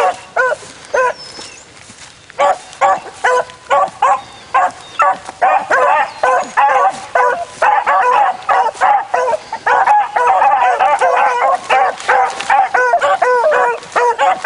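Several beagles baying on a run in quick, repeated high yelps. The calls lull briefly about a second in, then resume, with several voices overlapping near the end.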